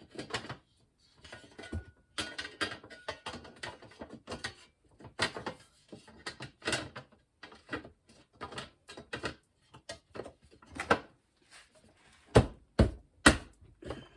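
Plastic dishwasher filter-assembly parts being handled and clipped into place: irregular clicks and knocks throughout, ending with three loud knocks in quick succession near the end.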